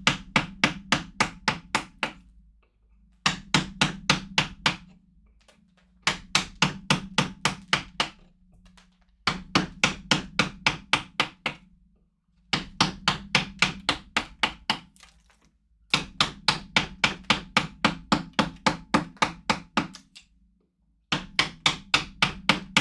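Mallet striking a wood carving chisel into wood: quick runs of sharp taps, about four a second, each run lasting a few seconds with short pauses between.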